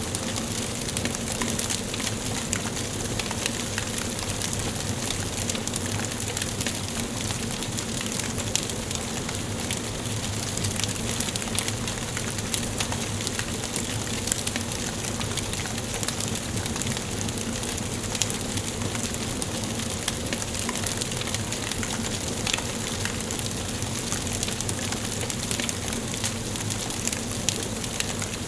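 Wood fire burning in a fireplace: a steady hiss and flutter of flames, dotted with frequent small crackles and pops.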